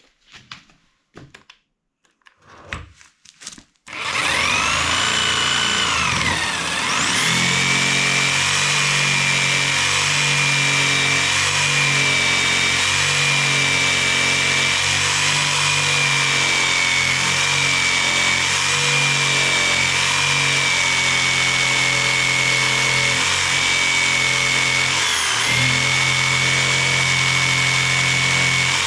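A few knocks, then an electric jigsaw starts about four seconds in. Its motor whine rises and settles, and it runs steadily, sawing slowly through a thick timber beam. The whine dips briefly near the end as the blade labours in the heavy cut.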